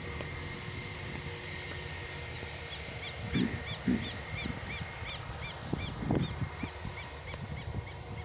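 A bird calling a rapid series of short, sharp, repeated notes, about three to four a second, starting a couple of seconds in and stopping near the end, over a steady low rumble of wind and distant engine noise.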